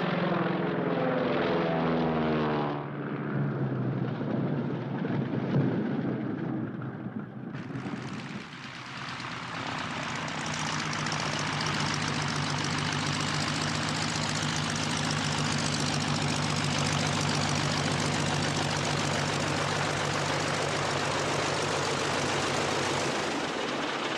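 Propeller biplane engine. Its pitch falls over the first two or three seconds. From about seven seconds in, a steady engine drone with a heavy rush of air runs on until just before the end.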